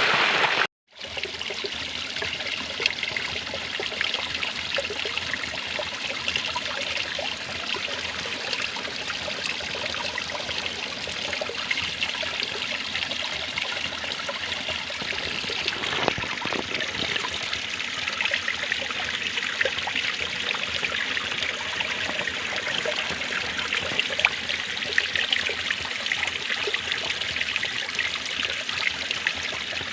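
Water trickling and flowing steadily over a small stream's bed. It cuts out for a moment about a second in, then runs on evenly.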